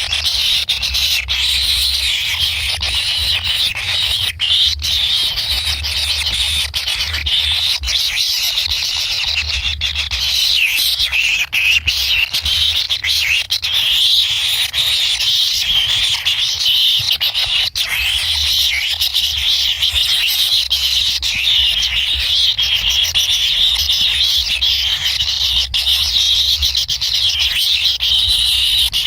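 Kingfisher chicks begging for food, a dense, continuous high-pitched chatter, with a low rumble coming and going underneath.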